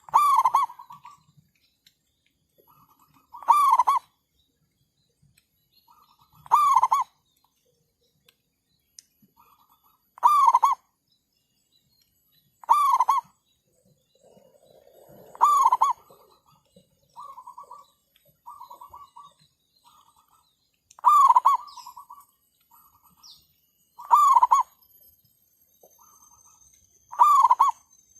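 Zebra doves cooing. A loud staccato coo repeats about every three seconds, and softer answering coos come in between, the wild dove responding to the decoy bird.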